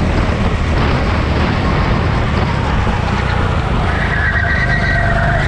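A motor vehicle engine running loud and steady, with a high tyre squeal coming in about four seconds in.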